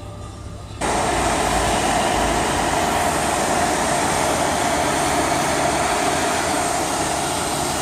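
Touchless automatic car wash's high-pressure water jets cutting in suddenly about a second in, then spraying with a steady loud rush.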